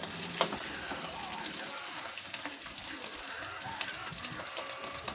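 Egg frying in hot oil in a wok, a steady sizzle with small crackles, as it is stirred and broken up into scrambled egg, with an occasional knock of a metal spatula against the pan.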